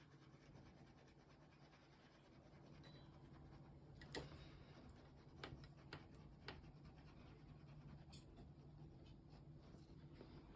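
Near silence: a steady low room hum with four faint, short clicks or scratches in the middle.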